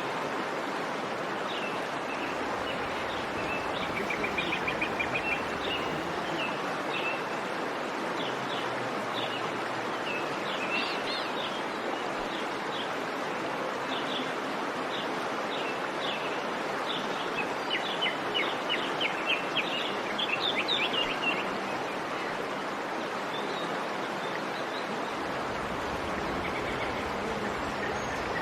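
Outdoor ambience: a steady rushing hiss with small birds chirping over it in short, quick repeated notes. The chirping is busiest a little past the middle.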